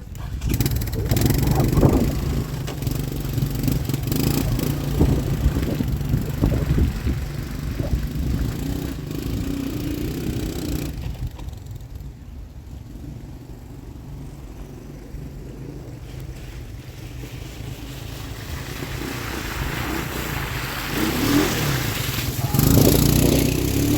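Three-wheeler's engine revving and running under load. It falls away in the middle and comes back louder near the end, as if passing by.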